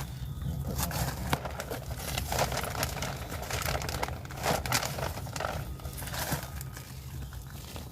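Irregular rustling and crinkling of hands working loose compost and bark mulch in a plastic storage tote, with many short crackles throughout.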